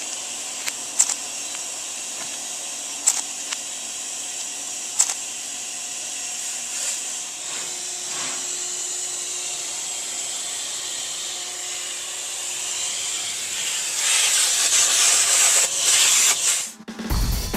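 A steady hiss with a few sharp clicks, growing louder for a few seconds near the end, then music cuts in.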